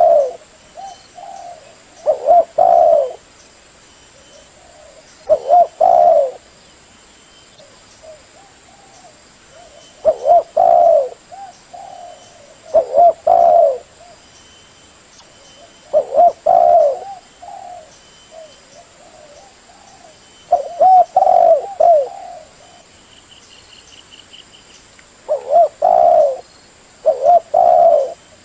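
Spotted dove cooing: loud phrases of a few descending coo notes, repeated every few seconds, the advertising call used as a lure sound to draw in wild doves.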